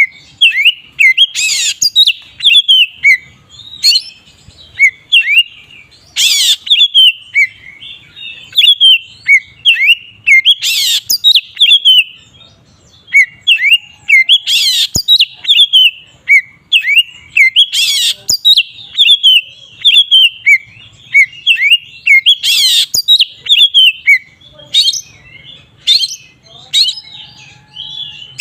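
Oriental magpie-robin (kacer) in full, continuous song, the open-voiced 'ngeplong' style: a fast, unbroken run of short whistled notes, broken every four or five seconds by a louder harsh note.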